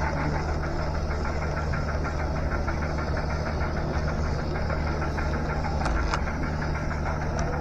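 Model train running along the layout track, heard from on board: a steady motor hum with rapid, even clicking, and a few sharper ticks near the end.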